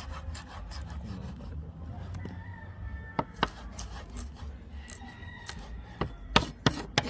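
Knife cutting seasoning vegetables on a cutting board: a steady scraping of the blade through the food, with sharp knocks of the knife on the board, a couple about three seconds in and a quick run of them near the end.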